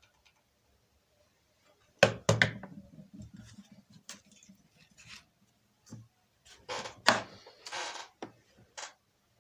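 Irregular knocks and clatter of objects being handled and set down. The loudest knock comes about two seconds in, with a cluster of knocks and a short scraping rustle around seven to eight seconds in.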